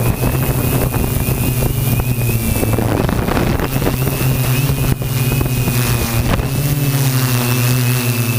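Align M470 multicopter's electric motors and propellers humming steadily in flight, with a thin high whine above the hum. Its pitch wavers around the middle as motor speed changes, with wind noise on the microphone.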